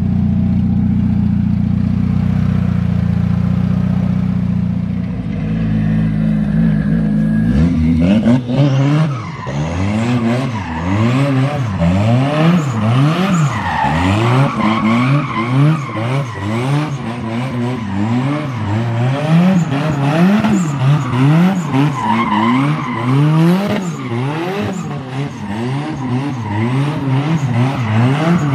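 A turbocharged KA24DET 2.4-litre four-cylinder in a Nissan 240SX, running steadily at first. Then, about seven seconds in, it is revved up and down over and over, roughly once a second, as the car does drift donuts with its tyres squealing.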